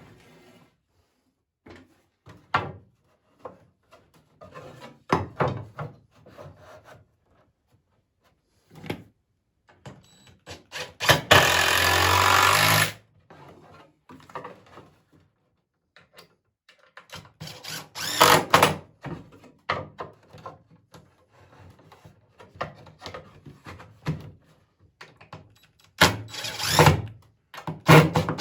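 Poplar boards knocked and shifted during assembly, with scattered thunks and rubbing. Near the middle a power drill or driver runs steadily for about two seconds, driving a screw, and near the end come more clusters of knocks.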